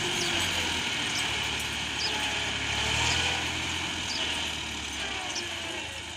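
Massey Ferguson 260 turbo tractor's diesel engine running steadily, its low note shifting slightly and easing off a little toward the end.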